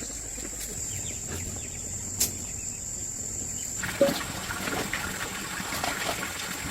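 Water trickling and splashing, with a few sharp ticks. About four seconds in the sound changes abruptly to a busier, denser splashing.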